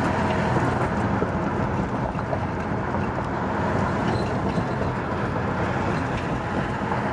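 A car being driven: steady road and engine noise with a low hum.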